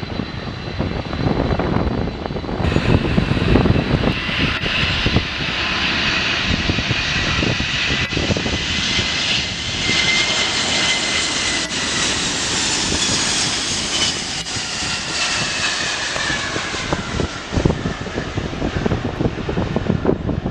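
Jet airliner's engines passing by: a whine that swells to a peak about halfway through, then slides down in pitch as it moves away, with wind buffeting the microphone throughout.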